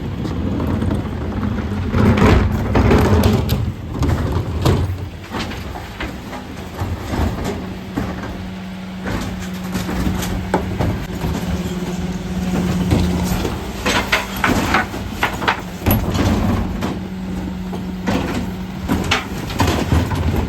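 Mercedes Econic refuse truck with a Faun Variopress body working a bin round: its engine and hydraulics run with a steady low hum through most of the middle, while repeated knocks and clatters come from wheelie bins being lifted and tipped, loudest a couple of seconds in and again about two-thirds through.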